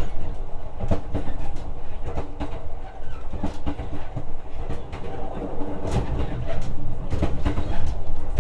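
Running noise of a JR West 125 series electric train, heard from inside the passenger car: wheels clacking over rail joints above a steady rumbling hum.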